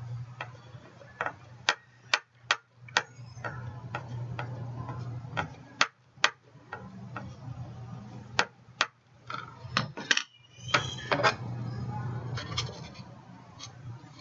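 Irregular sharp clicks and taps of stamping supplies being handled on a tabletop, an embossing ink pad and a rubber stamp on its acrylic block, over a low steady hum.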